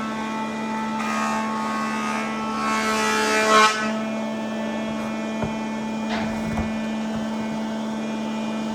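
A small electric motor hums steadily at one pitch. Over it come a few rushes of grinding noise, the loudest just before four seconds in.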